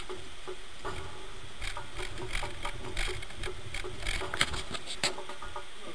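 Irregular knocks and taps from dancing feet on a boat deck, loudest a little past four seconds in and again about a second later.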